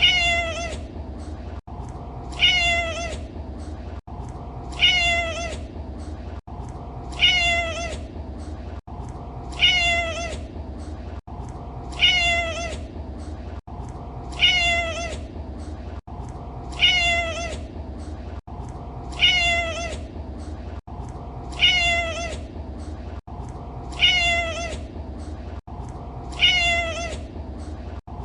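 Domestic cat meowing: the same short meow, falling in pitch at its end, repeats as a loop about every two and a half seconds, over a steady low hum.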